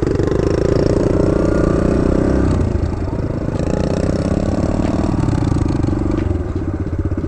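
Kawasaki KLX110 small single-cylinder four-stroke dirt bike engine running at low revs, its pitch easing down about two and a half seconds in and again near five seconds.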